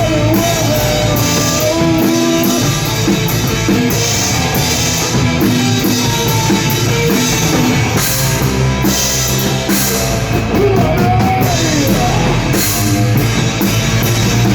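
Rock band playing an instrumental passage of a song on electric guitar, bass and drum kit, with a wavering melody line on top.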